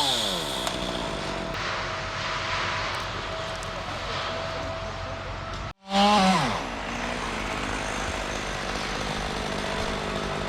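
Chainsaw engine revved briefly and dropping back to idle, then idling steadily; the sound breaks off for an instant about six seconds in, after which the saw is blipped again and falls back to idle.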